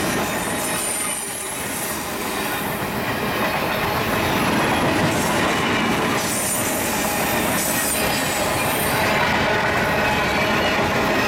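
Freight train of covered grain hopper cars rolling past close by: a steady, loud rumble and rattle of steel wheels on the rails, with brief high-pitched wheel squeals a few times.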